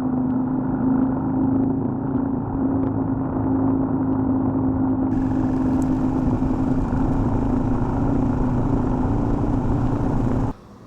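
AJP PR7's single-cylinder engine running at a steady cruising pace, with wind and road noise rushing over it. The sound cuts off abruptly shortly before the end.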